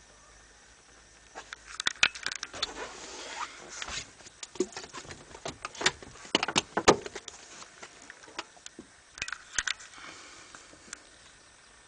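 Irregular clicks, knocks and rattles of handling, clustered in a few flurries.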